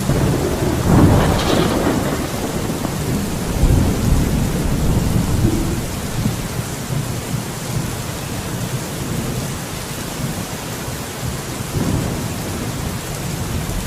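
Steady rain on a surface with rolling thunder. A sharper thunderclap comes about a second in, and deep low rumbles follow around four seconds in and again near the end.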